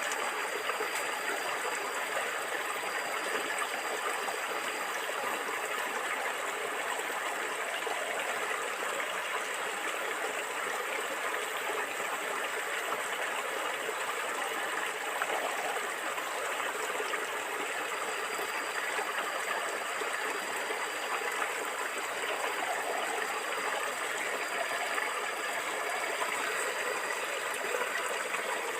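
Stream water flowing and gurgling, a steady, even rush with no change.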